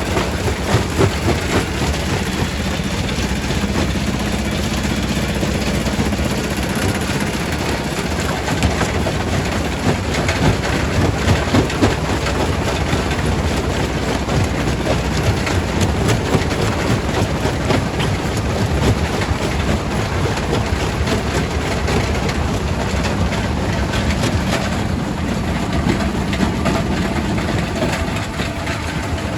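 Primary rock crusher in a quarry running under load: a steady heavy machine drone with stone cracking and clattering in a dense stream of sharp knocks.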